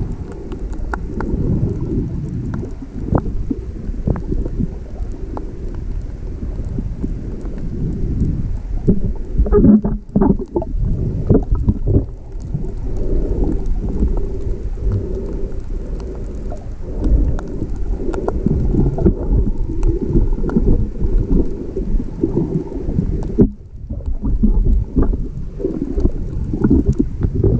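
Stormy sea: waves and wind buffeting the microphone, a loud low rumbling noise with a few sharper splashes about ten seconds in.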